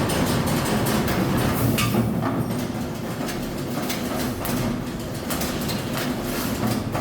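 Steady mechanical clatter and rumble with irregular metallic knocks and rattles, typical of workshop machinery or metal work.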